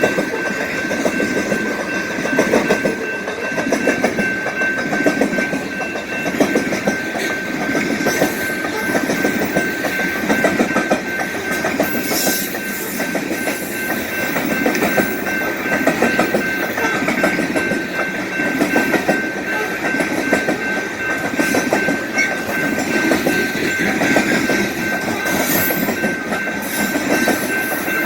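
Freight train cars rolling past at close range, their wheels clattering steadily on the rails. A steady high-pitched tone runs above the clatter.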